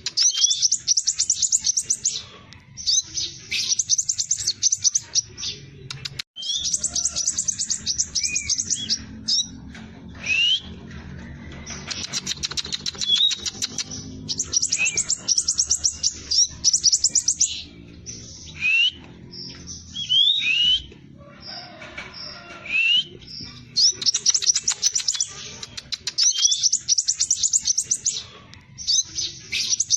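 Scarlet minivet singing: bursts of rapid, high chattering trills a second or two long, repeated again and again, with short rising whistled notes between them.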